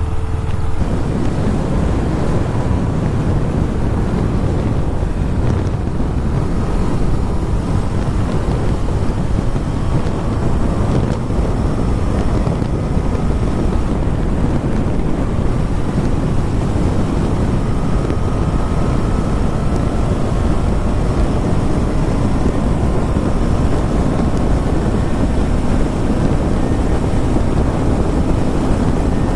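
Steady wind rushing over a helmet-mounted microphone on a moving motorcycle, with the KTM Duke 250's single-cylinder engine running faintly underneath.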